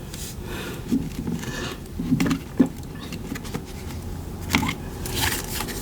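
Tarot cards being handled: irregular short scrapes and rustles of card on card and on the table, with a few sharp taps.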